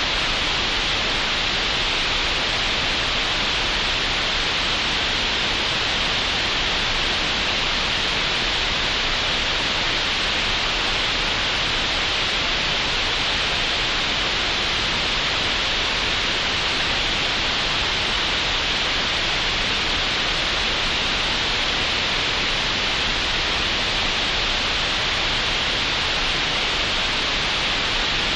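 Computer-generated green noise: a steady, even hiss with no changes or events, brightest in the upper middle range and cut off above about 8 kHz.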